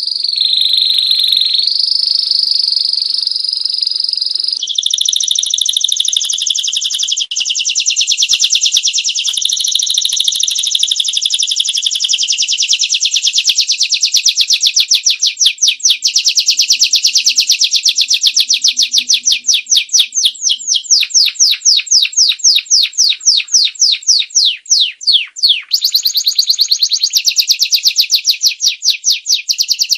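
Domestic canary singing a long unbroken song that starts suddenly. It opens with smooth high rolling trills, moves from about halfway into a fast run of evenly repeated sharp notes, and switches to a different trill near the end.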